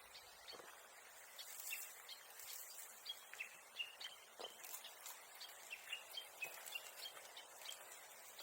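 Faint outdoor ambience with small birds chirping, short high chirps repeating through, and a few light knocks.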